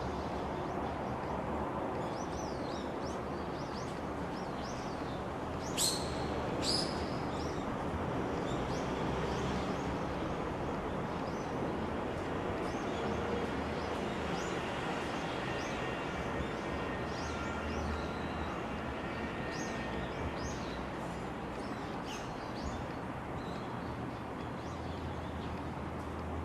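Small birds chirping repeatedly over a steady background noise, with two louder, sharp calls about six and seven seconds in.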